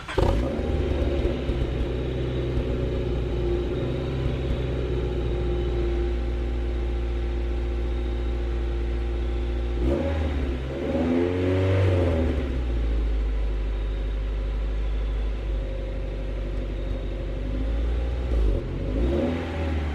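Honda H22A 2.2-litre four-cylinder engine starting and settling into a steady idle, revved once about halfway through with the pitch rising and falling, and blipped briefly near the end. It runs evenly on fresh spark plugs and wires, the misfire cured.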